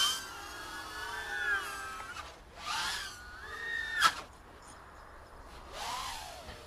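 Cat meowing: three long, drawn-out calls that waver and slide in pitch, the second ending in a sharp click.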